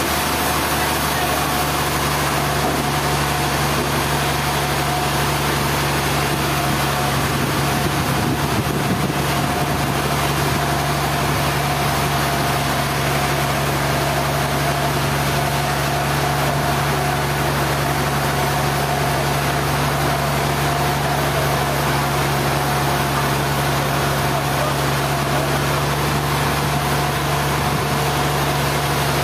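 Sawmill machinery running steadily, a constant hum with a steady low tone and a fainter higher whine that does not change.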